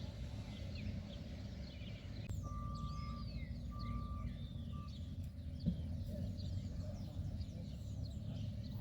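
Wild birds chirping and calling over a steady low rumble, with three steady whistled notes about two to five seconds in.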